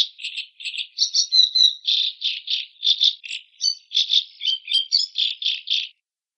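Macaw giving a fast series of harsh, rasping calls, about four a second, with a few thin whistled notes between them. The calls cut off suddenly near the end.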